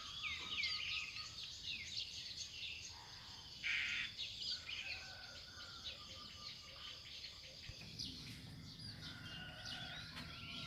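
Several birds chirping and calling, with many short rising and falling chirps overlapping throughout, and a brief burst of noise about four seconds in.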